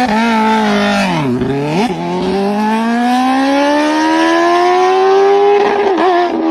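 Superbike engine revving hard: its pitch drops and jumps back up about a second and a half in, then climbs steadily for about three seconds as it accelerates and levels off near the end.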